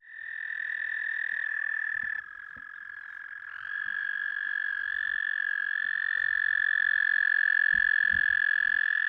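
Frogs trilling: long, steady high-pitched trills that overlap. The sound dips about two seconds in, and a louder trill comes in a second or so later.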